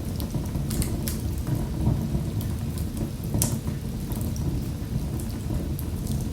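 Fire in a fireplace crackling: a steady low rumble of burning with frequent sharp crackles and pops, the loudest about three and a half seconds in.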